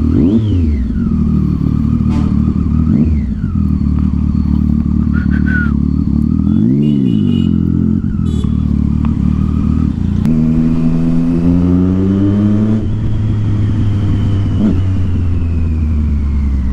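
Triumph Street Triple 675's inline-three engine through a loud aftermarket Yoshimura exhaust, ridden at low speed. The pitch rises and falls in several short throttle blips, then holds higher for a few seconds as the bike pulls, and settles back.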